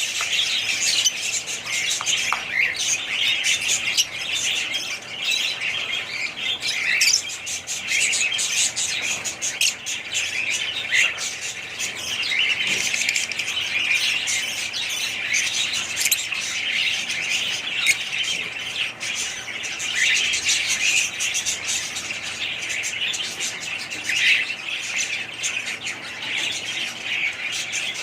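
Many small birds chirping and squawking at once, a dense overlapping chatter that never lets up.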